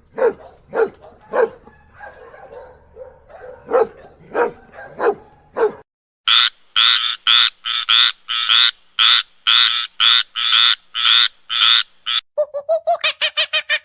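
Animal calls in three runs. First, sharp calls come about every half second. After a short break, a faster run of louder, higher-pitched calls follows. Near the end comes a quick string of short pitched chirps.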